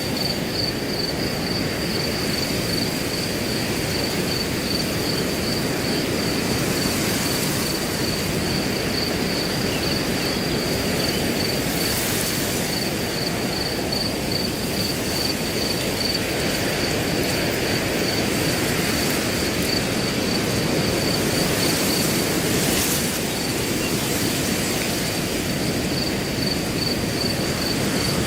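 Wind blowing steadily through grass, with crickets keeping up a continuous high, rapidly pulsing trill above it.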